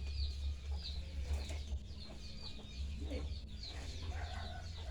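Chickens peeping: many short, high, falling chirps repeating throughout, over a steady low hum.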